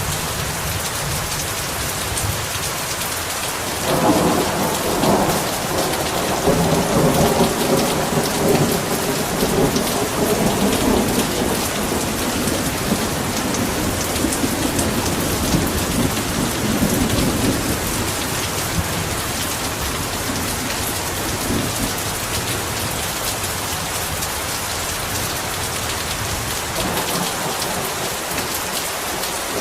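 Heavy rain falling steadily. About four seconds in, a roll of thunder starts suddenly and rumbles on, dying away over some fifteen seconds; another faint rumble rises near the end.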